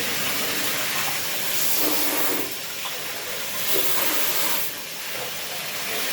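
Air and water hissing and spitting out of the plumbing while an airlock is being cleared, with two louder surges of hiss. The airlock is not yet cleared, so the line is spitting air instead of running water.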